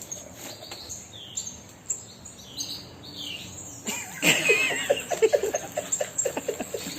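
Parrot calls: short high chirps and whistles, then about four seconds in a louder run of rapid, laughter-like chattering.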